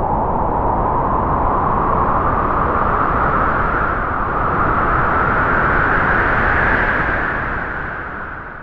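Strong wind howling: a rushing noise with a whistling tone that slowly rises in pitch as the gust builds, then dies away near the end.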